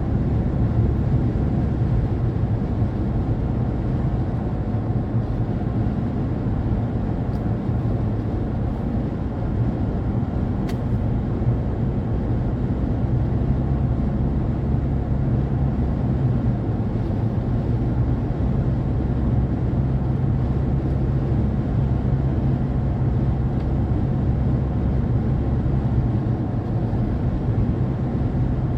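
Car driving at steady speed: a constant low rumble of engine and tyres on the road.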